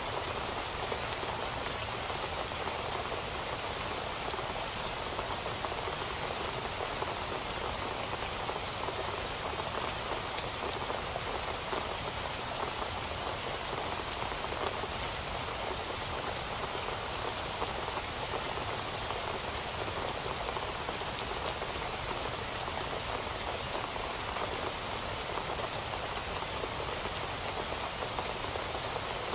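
Steady rain falling and pattering on a surface, with dense fine drop ticks and no thunder.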